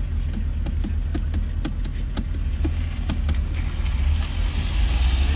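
Mercedes-Benz C63 AMG (W204) 6.2-litre V8 running with a steady low rumble, light clicks scattered over it, and a hiss building up near the end.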